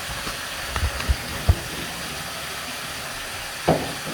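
Steady hiss of tap water running into a bathtub, with a few soft knocks and bumps.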